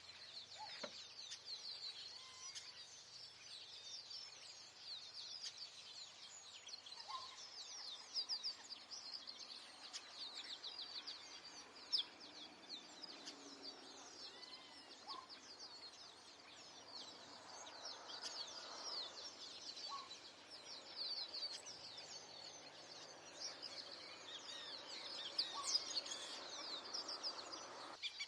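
A dense chorus of small birds chirping continuously in rapid, high notes, with a few fainter, lower calls scattered through it.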